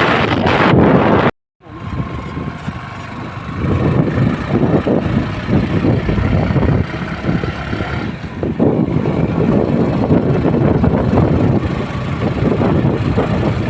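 Motorcycle on the move, its engine and the ride making a dense, steady noise. The sound drops out completely for a moment about a second and a half in.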